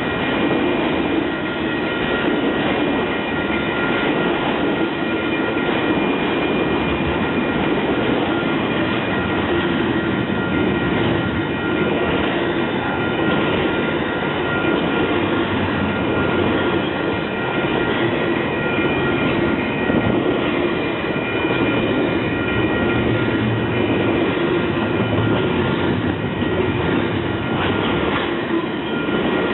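A train rolling past on the track: a steady, loud rumble of wheels on rail, with a few thin, steady high-pitched tones running through it.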